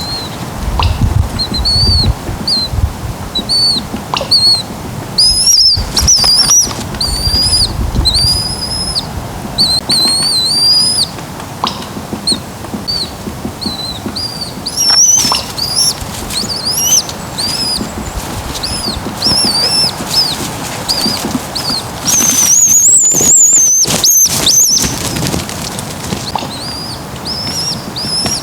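Songbirds calling in woodland: short, high chirps repeated over and over, with a louder, higher burst of song about three-quarters of the way through. A low rumble sits under the first few seconds.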